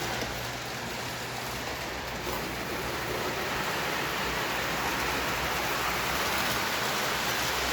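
Lionel O-scale model train running along its track: a steady, even noise that grows gradually louder over the last few seconds.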